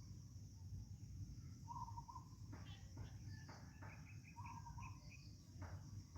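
Faint rural morning ambience: a steady high insect drone, with a bird repeating a short trilled call about every two and a half seconds and a few quick higher chirps, over a low rumble.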